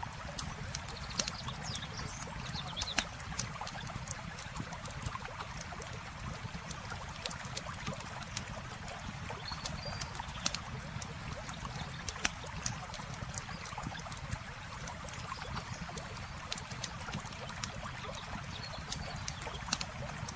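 Wood campfire crackling with frequent sharp, irregular pops over the steady rush of running water. A few faint high chirps come and go.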